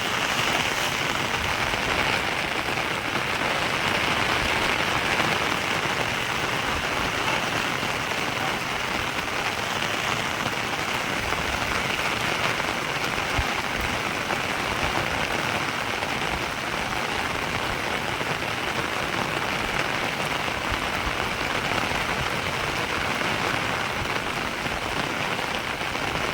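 Steady rain falling and pattering on surfaces, an even continuous hiss with no letup.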